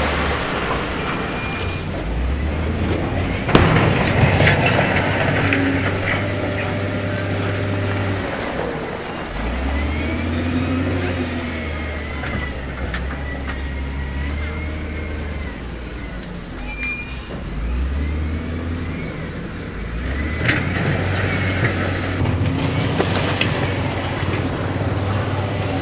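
Heavy diesel construction machinery working: the engine revs up and settles back several times, with a sharp knock about three and a half seconds in and some squealing of moving parts.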